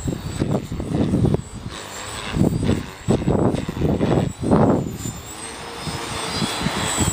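Wind buffeting the microphone in heavy gusts for the first five seconds, then easing, over the faint high whine of an Align T-Rex 450 Pro electric RC helicopter in flight.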